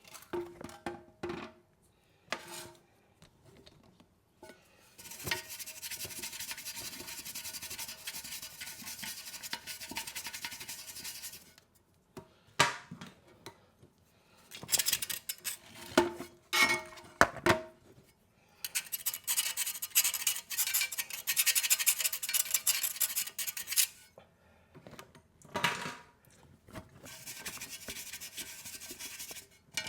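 Wire brush scrubbing around a toilet tank's bolt hole in four bouts of rapid back-and-forth strokes, with a few knocks in between. This is cleaning off rust and crud so that a new washer can seal.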